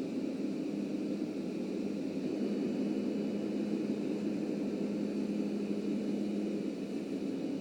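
Subway train running along the track: a steady rumble with a constant low hum, holding even throughout.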